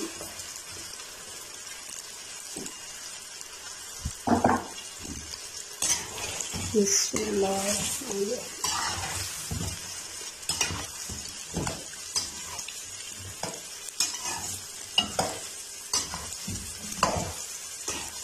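Sliced taro (arbi) deep-frying in hot oil in a karahi, with a steady sizzle. A metal slotted spoon stirs the slices and knocks against the pan now and then.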